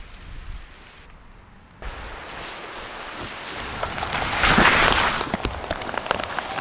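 Wind in a heavy snowstorm, changing abruptly about two seconds in and building to a loud gust around the middle before easing a little.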